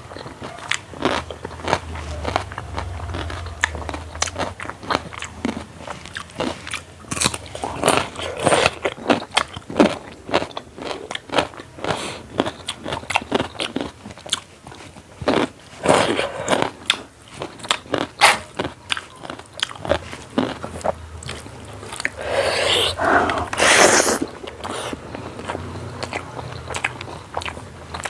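Close-miked eating: chewing and crunching mouthfuls of a dal bhat meal with buffalo meat, fried beans, cucumber and papad, a quick irregular run of sharp crunches. Near the end comes a longer, louder stretch of crunching.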